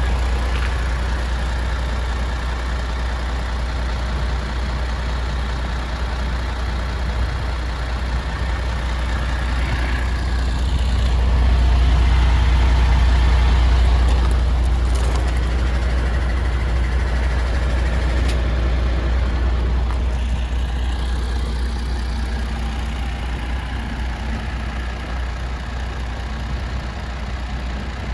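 The 470 hp diesel engine of a MAN TGX 26.470 tractor unit idling steadily, a little louder for a few seconds around the middle.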